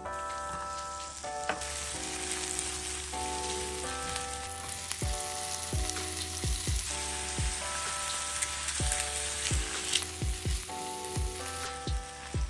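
Sliced onion, garlic and then bacon frying in melted butter in a frying pan, a steady sizzle. Background music with notes and a beat plays over it.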